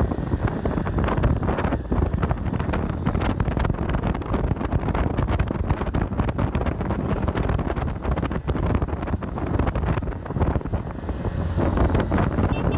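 Heavy wind buffeting on the microphone of a rider on a Honda CG 160 Start motorcycle, with the bike's single-cylinder engine running underneath.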